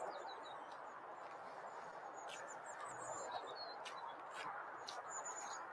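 Faint, high bird chirps and short calls, with a few brief ticks, over a steady background hiss.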